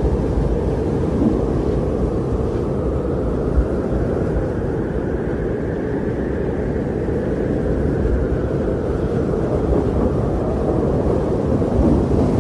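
Strong blizzard wind blowing, a steady low rush that swells in a gust around the middle and then eases.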